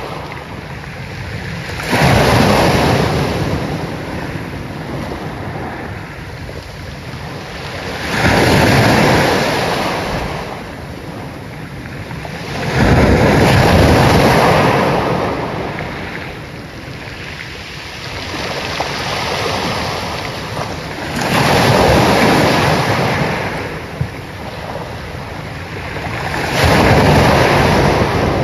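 Ocean waves, with about five surges of surf, each rising quickly and then fading away over several seconds.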